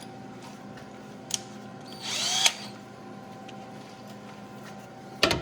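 Power drill given a short burst, its motor whine rising in pitch for about half a second two seconds in, with a few sharp clicks around it; a steady hum runs underneath.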